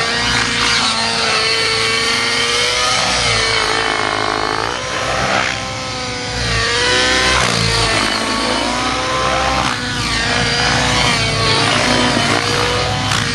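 Nitro RC helicopter's OS 90 glow engine with a GP-Exhaust tuned pipe running at high revs in flight. Its pitch bends down and back up several times, with the deepest dip about four seconds in.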